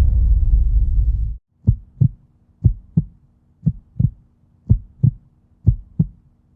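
A loud low rumble cuts off suddenly about a second and a half in. It gives way to a heartbeat sound effect: slow double thumps, lub-dub, about once a second, over a faint steady hum.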